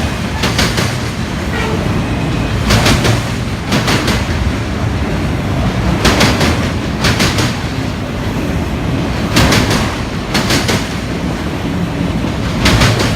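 Union Pacific autorack freight cars rolling past: a steady low rumble with wheels clacking over a rail joint in close pairs, a pair about every three seconds as each car passes.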